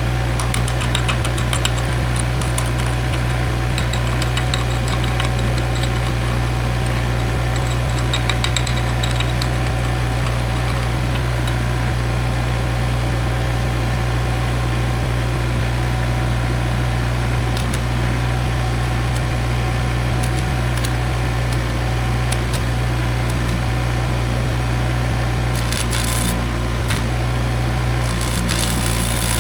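An engine running steadily at idle, a constant low hum, with light crackling over it in the first several seconds and a brief higher hiss near the end.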